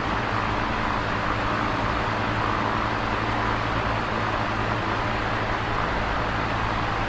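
Electric fan running steadily: an even whooshing air noise over a low motor hum, with no change.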